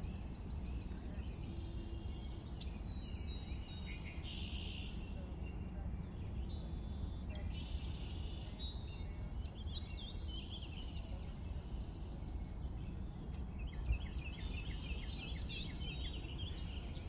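Outdoor ambience of birds chirping and calling, with a rapid series of short chirps near the end, over a low steady rumble.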